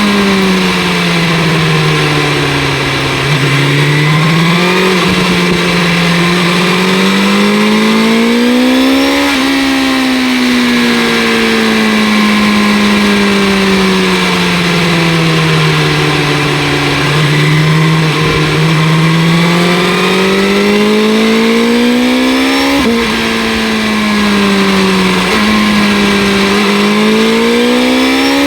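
2025 BMW S1000 RR inline-four with an Akrapovic exhaust, heard while riding: the engine note sinks slowly as revs fall off, then climbs again as it accelerates, twice over. About three-quarters through, the pitch drops suddenly in an upshift and climbs again. A rush of wind runs underneath.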